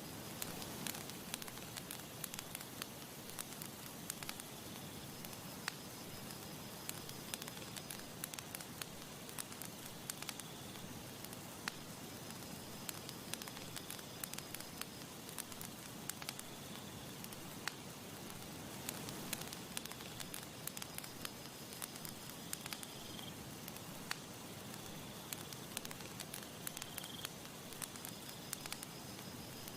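Campfire crackling, with frequent sharp pops and snaps over a steady soft hiss.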